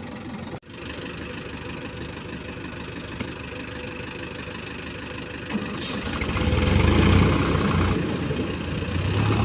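Diesel tractor engine running steadily, then revving up and getting louder from about six seconds in, as when pulling a stuck tractor out of mud. The sound cuts out briefly under a second in.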